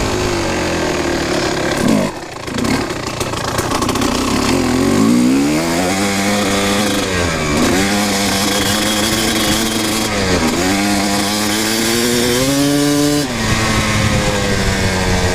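Kawasaki KX250 two-stroke dirt bike engine under way. Its note falls off at first, then climbs through the gears with a short drop at each shift, three times. It falls away sharply near the end as the throttle comes off.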